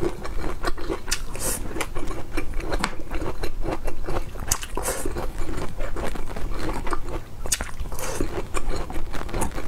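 Close-miked crunching and chewing of broccoli florets, with many short crackles and a few sharp clicks, and a metal fork scraping on a metal baking tray.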